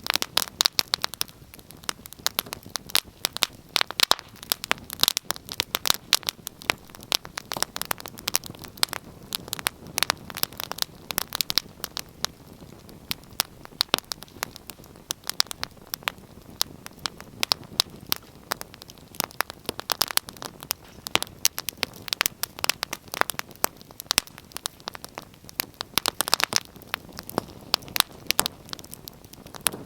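Wood fire crackling in a fireplace: irregular sharp pops and snaps, some in quick clusters, over a soft steady hiss of burning.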